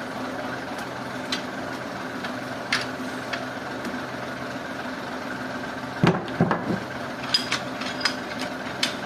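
Engine idling steadily, with scattered knocks and clanks. A louder burst of knocking comes about six seconds in, followed by a run of sharp ticks.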